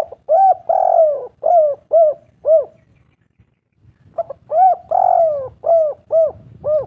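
Spotted dove cooing: two full calls a little over a second apart. Each call is a short coo, a longer drawn-out coo, then three quick short coos.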